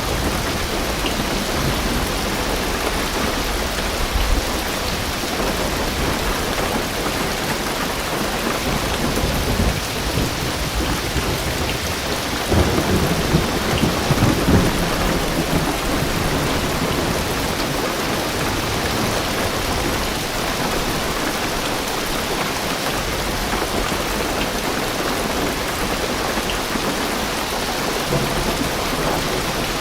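Heavy rain drumming steadily on a car's roof and windows, heard from inside the car. About halfway through, a low rumble of thunder swells up for a couple of seconds.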